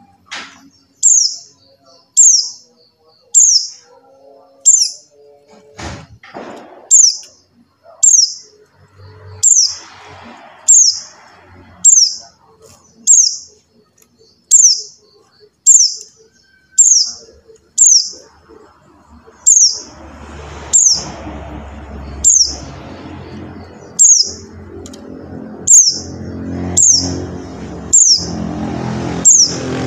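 Pleci buxtoni white-eye calling: a short, high, downward-slurred call repeated evenly about every three-quarters of a second. A low rumble of background noise builds beneath it from about two-thirds of the way in.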